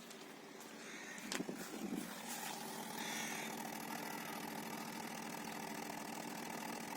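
Toyota 5A-FE four-cylinder petrol engine idling steadily while water is fed into its intake to burn off carbon deposits. There is a short louder, uneven spell about a second and a half in.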